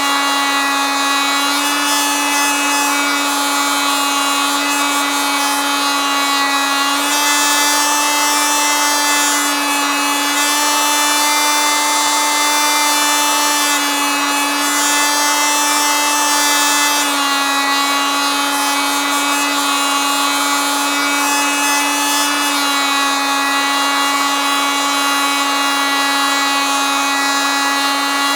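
Oscillating multitool running steadily with a buzzing whine. Its pitch steps slightly up and down a few times, and a harsher hiss joins from about 7 to 17 seconds in, as if the blade is working into material.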